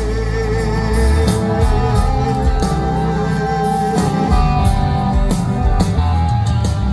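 Live band playing an instrumental passage between sung lines of a gospel worship song: a held, wavering lead note over bass and regular drum hits.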